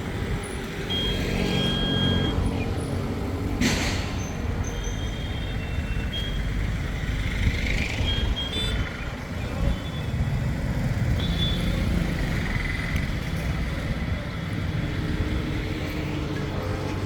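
Road traffic: a steady low rumble of passing vehicles, with a short hiss about three and a half seconds in and a few thin high tones.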